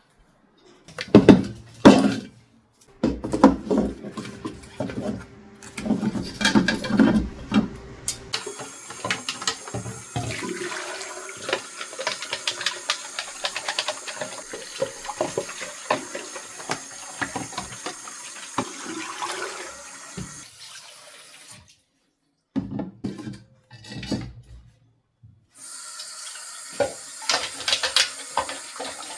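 Water running from a tap into a sink in two long stretches, with knocks and clatter of things being handled in and around the sink before and between them.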